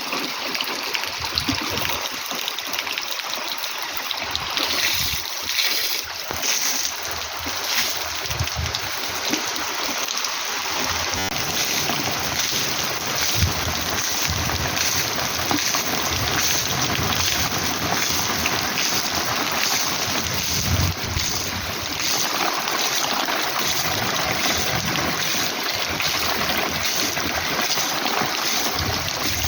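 Heavy rain falling steadily, with irregular low rumbles of wind on the microphone.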